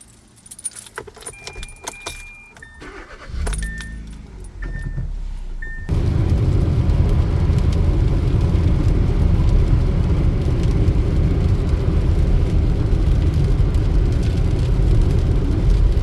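Keys jingling and clicking, a car's warning chime beeping about once a second, and the engine starting about three seconds in. About six seconds in, steady loud engine and road noise takes over as the car drives.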